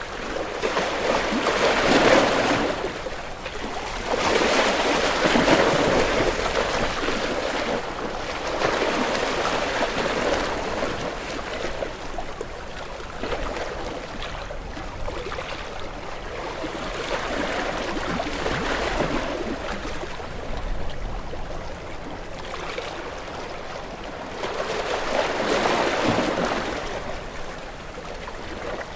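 Ocean waves washing in and drawing back, the surf noise swelling and fading in uneven surges, loudest about two seconds in, again around five seconds, and near the end.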